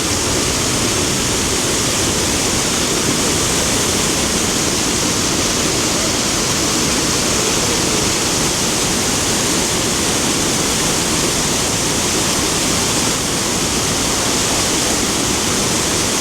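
Rhine Falls waterfall: a loud, steady rush of falling water.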